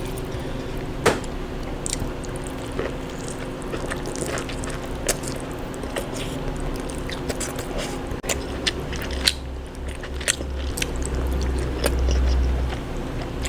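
Close-miked eating sounds of seafood: chewing and biting with frequent sharp crunches and clicks. A low rumble swells about eight seconds in and fades near the end.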